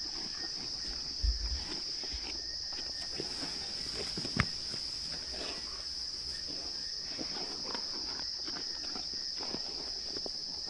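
Steady high-pitched chorus of crickets, with scattered short crackles and knocks from hyenas feeding on a buffalo carcass, including a dull thump about a second in and a sharp crack about four seconds in.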